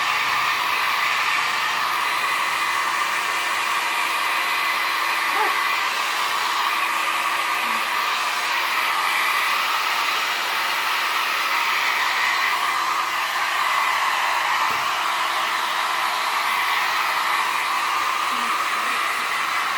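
Steady rushing noise of blowing air from a motor-driven blower, with a faint low hum under it.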